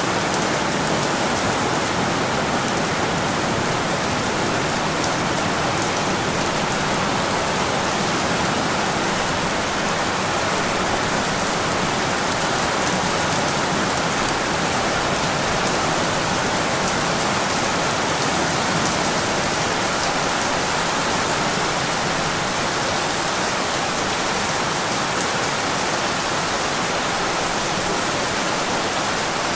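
Heavy rain pouring steadily, a dense even hiss of drops with fine patter.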